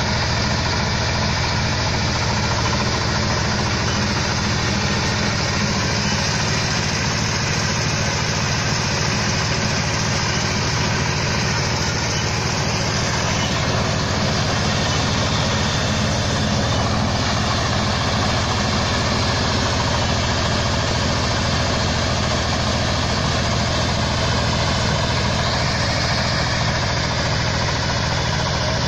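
Mini combine harvester's engine running steadily at an even speed, with no change in pitch or level.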